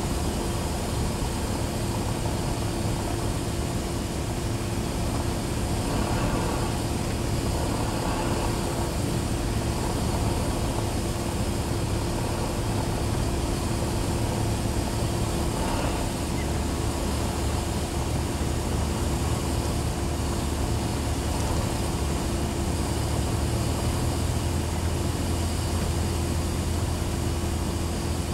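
Cessna 172SP's four-cylinder Lycoming piston engine and propeller droning steadily at reduced power, heard inside the cockpit during the landing. The low part of the hum shifts and deepens about halfway through.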